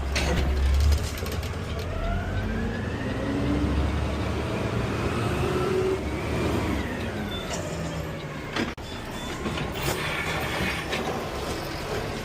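Peterbilt 520 CNG garbage truck running, with a low rumble and a whine that rises for several seconds and then falls away as the truck's engine or drivetrain speeds up and eases off.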